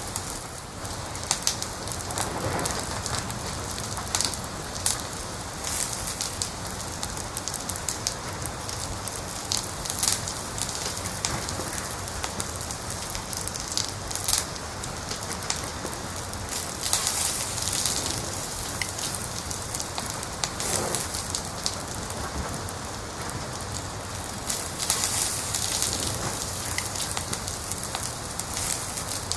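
Wood fire crackling: irregular sharp pops and snaps over a steady hiss, with a couple of longer hissing flare-ups, one about halfway through and one near the end.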